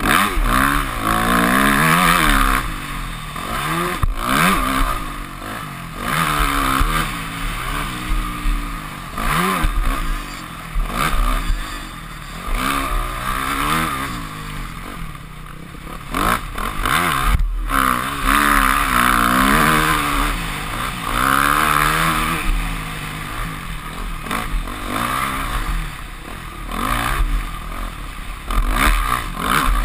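Yamaha YZ250F four-stroke single-cylinder engine revving up and falling back again and again as the throttle is worked, heard from a helmet camera. Two sharp knocks stand out, about four seconds in and again past halfway.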